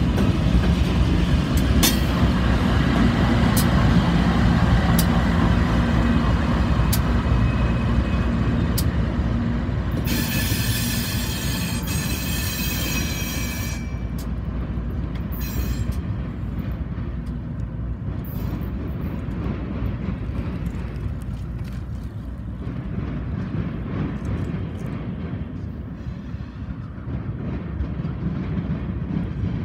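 Freight train of covered hopper cars with a BNSF diesel locomotive in the consist rolling past close by: a loud steady rumble with sharp clicks of wheels over rail joints, and a high wheel squeal for about four seconds around ten seconds in. After that the sound drops to a quieter, more distant rumble of another freight train approaching slowly.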